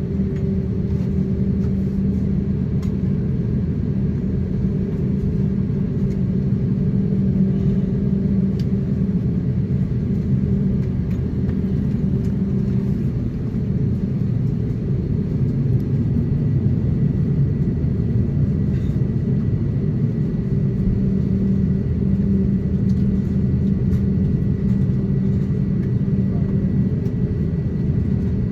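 Cabin noise inside an Airbus A350-900 taxiing: a steady rumble of the Rolls-Royce Trent XWB engines at taxi power, with a low steady hum and a few faint ticks.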